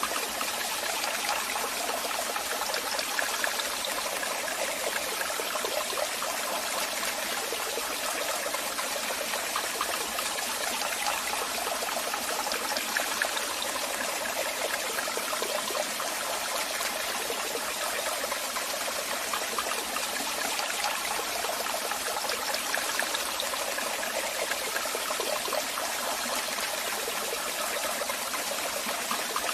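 Waterfall: falling and splashing water making a steady, even rush, mostly high and hissing with little low rumble.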